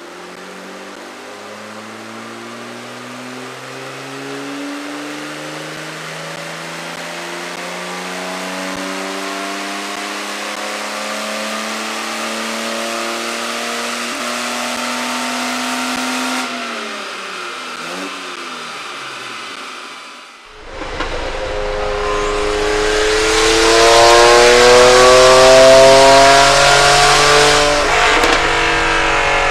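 Austin-Healey 3000 MkI's straight-six engine pulling under load on a power dyno, its revs climbing slowly and steadily for about sixteen seconds before it lifts off and winds down. After a sudden break a second, louder run climbs in revs to a peak and drops off near the end.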